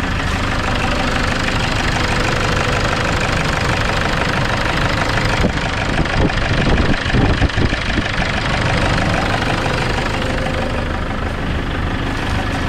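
Toyota Innova's D-4D common-rail diesel engine idling with a heavy, abnormal knock, with a few irregular louder strokes about six to eight seconds in. The mechanic likens it to an injector or pump fault.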